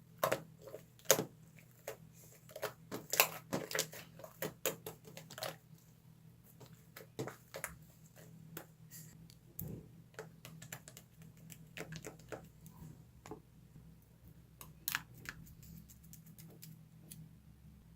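Slime being pressed and worked by hand, giving quick sticky clicks and pops, thick and fast for the first several seconds and sparser after that.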